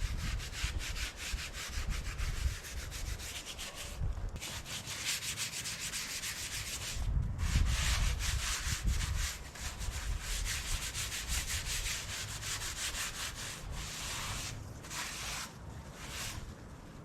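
Abrasive scrubbing on the metal tractor front weights, cleaning off rust and old paint before priming: a continuous rough rubbing with a few short pauses and occasional low knocks.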